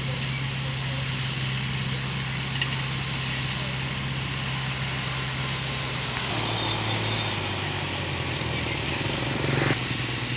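Diesel engine of an earthmoving machine running steadily. Its note shifts lower about six seconds in, and it swells briefly near the end.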